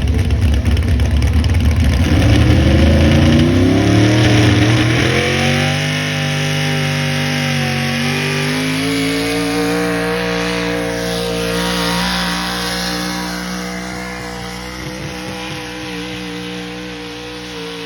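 Big engine of a pulling vehicle under full load: its pitch climbs over the first few seconds, then holds high and creeps slowly upward as the sound gradually fades, as if the vehicle is moving away down the track.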